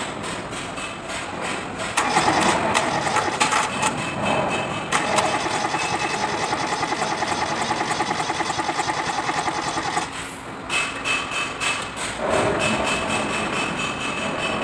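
Kubota D650 three-cylinder diesel in a B6001 tractor cranking on its starter with a rapid, even chuffing. It gets louder about two seconds in, stops briefly about ten seconds in, then cranks again. The engine is hard to start, a fault traced to a stuck injection pump plunger.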